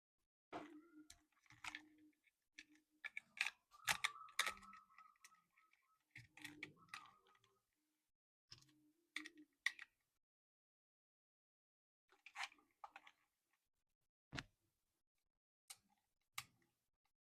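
Irregular clicks, taps and short rustles of plastic toy parts and packaging being handled, dense in the first half, then a few isolated clicks spaced well apart.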